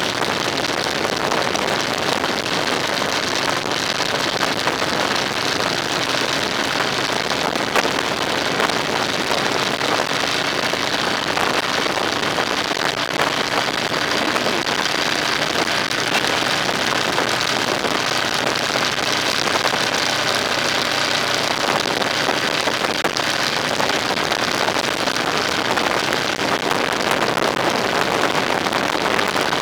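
Moving road vehicle: a steady rush of road and wind noise with a faint engine drone underneath.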